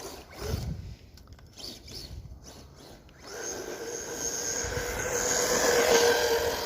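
Rustler 4x4 RC truck's electric Hobbystar motor whining at a steady pitch as the truck runs through snow on paddle tires. The first three seconds are quieter, with scattered scraping and crunching; then the whine sets in and grows louder.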